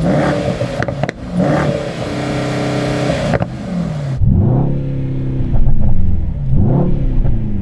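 Mercedes-AMG GT 63's twin-turbo V8 revved while standing still: the pitch climbs and is held high for a couple of seconds, falls back, then is blipped up and down twice more.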